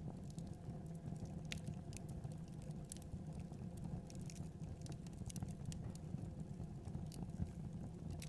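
Fireplace fire crackling: scattered sharp pops and snaps at irregular moments over a steady low rumble of burning.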